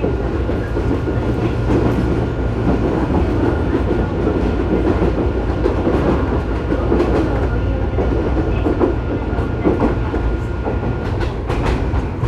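Tobu 9000 series electric train running, heard from above the armature chopper of a car known for an unusual chopper noise: a steady high tone over the rumble of the running gear. The tone stops about eleven seconds in, and a quick run of wheel clicks over rail joints follows near the end.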